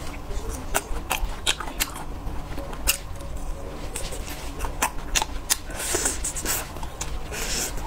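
Close-miked chewing of grilled skewered food: a steady run of sharp mouth clicks and smacks, with teeth pulling food off a skewer. Two short hissing sounds come about six seconds in and near the end.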